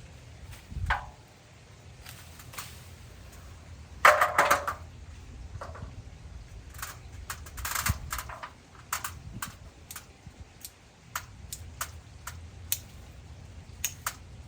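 Hand pruning shears snipping: a run of short, sharp clicks at irregular intervals, with a louder crackle of branches and leaves about four seconds in.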